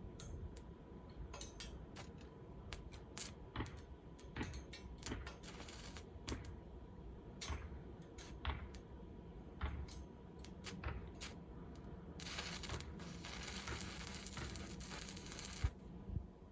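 Scattered sharp clicks and knocks, then a steady hiss lasting about three and a half seconds near the end.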